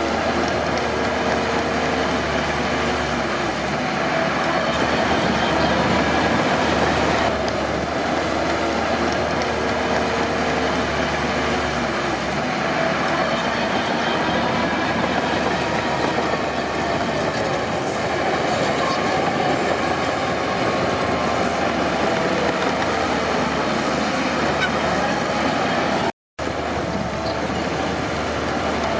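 Crawler bulldozer working, its diesel engine running steadily under a dense, even mechanical clatter. The sound cuts out briefly about 26 seconds in.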